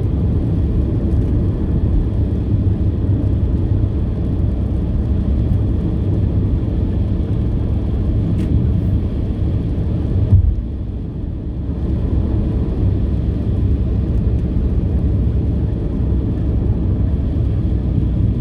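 Steady low rumble of a car being driven, heard from inside the cabin. About ten seconds in there is a short bump, and the noise dips for a second or so before returning to the same level.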